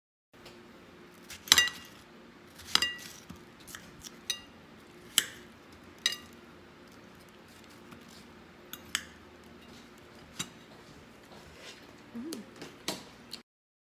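A series of sharp clinks and knocks of hard objects, about a dozen spread irregularly, the two loudest early ones ringing briefly, over a faint steady hum.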